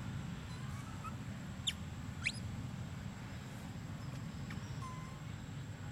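Birds chirping: two sharp, quick downward-sweeping chirps about two seconds in, with a few fainter short calls around them, over a steady low background rumble.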